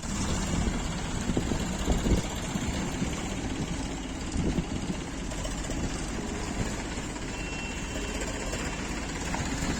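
VST Shakti 9054 tractor's diesel engine running steadily, with a few louder thumps in the first few seconds.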